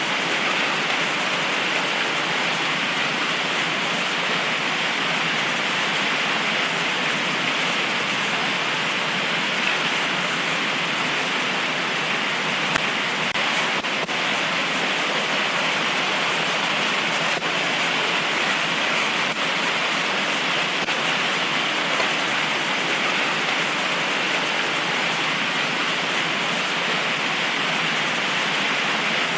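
Heavy tropical rain pouring down steadily in an even hiss, with a few single drops spattering a little sharper than the rest.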